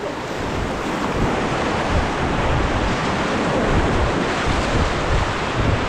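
Whitewater of a river rapid rushing loudly and steadily around a paddled raft.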